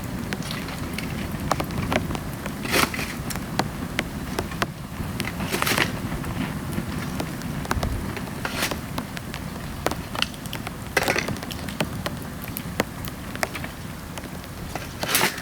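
Dry bamboo burning in a steel pail can, crackling with irregular sharp pops and snaps, several of them loud, over a steady low noise of the flames and falling rain.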